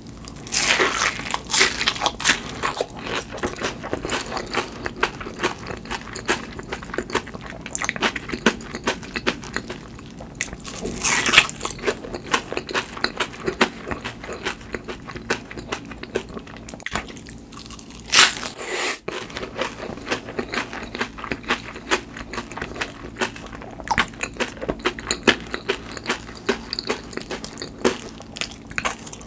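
Biting into and chewing a crispy fried hash brown topped with mashed avocado: a crunching bite about a second in, more loud crunches around eleven and eighteen seconds in, and steady crunchy chewing between.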